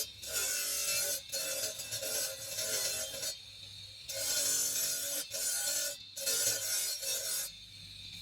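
Green marble being filed, a steady abrasive scraping broken by short pauses, the longest about three and a half and seven and a half seconds in, over background music.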